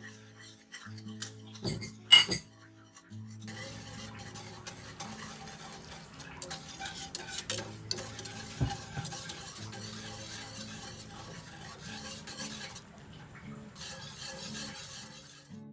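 A couple of sharp clinks of a utensil on a dish, then from about three seconds in a long stretch of steady stirring, a utensil scraping and ticking against the bowl, over soft background music.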